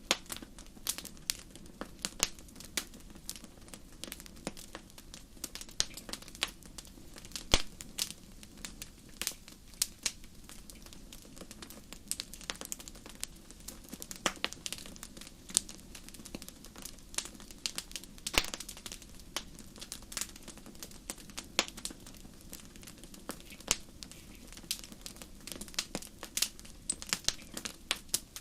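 Wood fire in a fireplace crackling: irregular sharp pops and snaps, a few of them louder, over a steady low hiss of burning.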